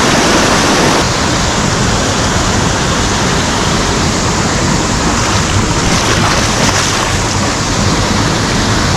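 Loud, steady rush of a mountain stream's water cascading close by.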